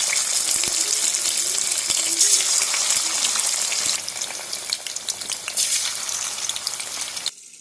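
Food frying in hot oil, a steady loud sizzle with fine crackling. It softens about halfway through and cuts off abruptly near the end.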